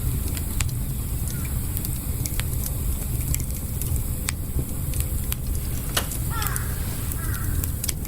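Wood campfire burning, scattered sharp crackles and pops over a low steady rumble. A few short descending chirps come between about six and seven and a half seconds in.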